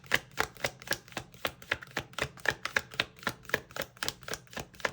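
Tarot deck being shuffled overhand, the cards slapping in a quick, even rhythm of about four a second.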